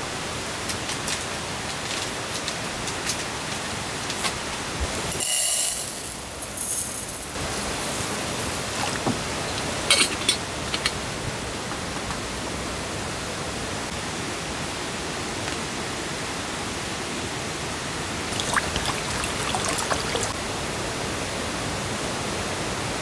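Steady rain falling on a tent, with a brief hiss about five seconds in and a few sharp clicks about ten seconds in.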